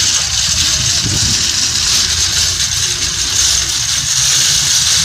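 Steady vehicle engine noise: a low rumble with an even hiss over it.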